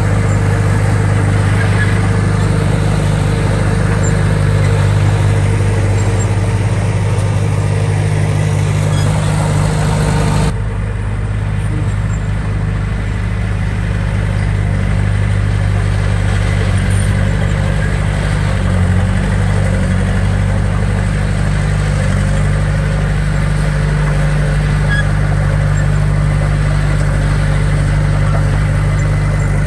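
Diesel engine of heavy earthmoving machinery running steadily with a deep, even hum. About ten seconds in, the sound changes suddenly and the higher hiss drops away.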